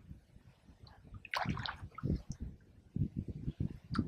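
Kayak paddle strokes dipping and splashing in the water, a few irregular splashes about a second apart.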